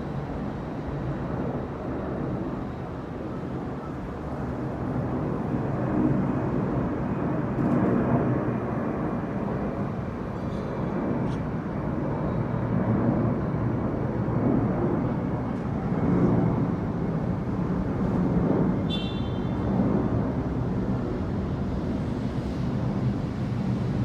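Roar of an airplane: a continuous low rumble that swells and ebbs in waves.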